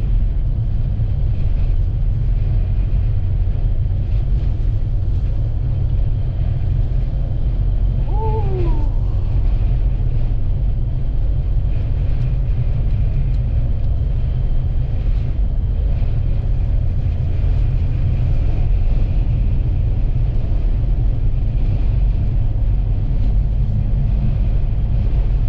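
Steady low rumble of a vehicle driving at highway speed through strong wind, heard from inside the cabin: wind buffeting and road noise blended together.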